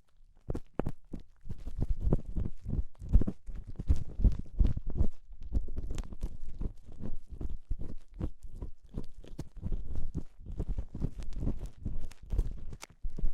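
Ear-cleaning tool scraping and scratching in an ear close on the microphone: a dense, irregular run of short scratches and clicks.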